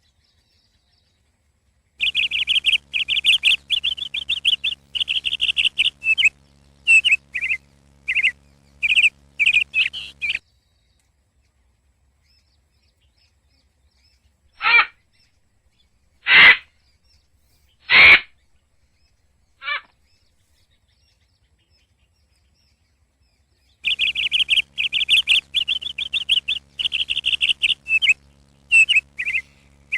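Birds chirping: two bouts of fast, high twittering with a faint steady hum under them. Between the bouts come four separate short, loud calls about a second and a half apart, with dead silence around them.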